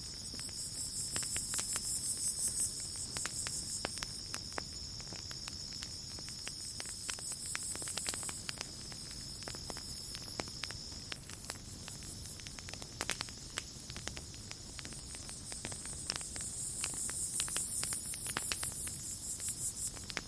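Campfire crackling with frequent sharp pops and snaps, over a steady chorus of night insects chirping. A higher pulsing insect trill swells up over the first several seconds and again near the end.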